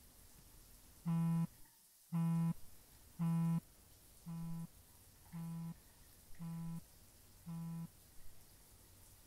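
A mobile phone buzzing in a repeated pattern: seven short buzzes about a second apart, the first three loud and the last four quieter.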